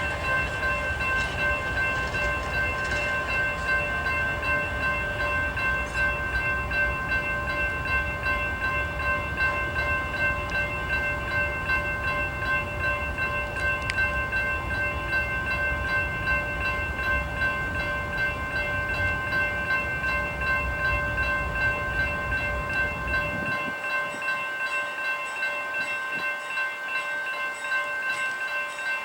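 Union Pacific freight train passing with a low rumble, with several steady high-pitched tones held over it. The rumble cuts off abruptly about 23 seconds in, while the tones continue.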